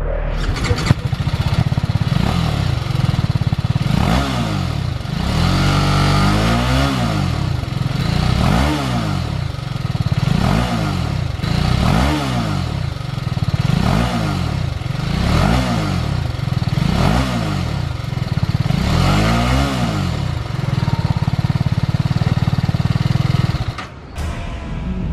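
TVS Apache RR 310's single-cylinder engine revved up and back down about ten times in quick succession, then held steady for a few seconds before cutting off near the end.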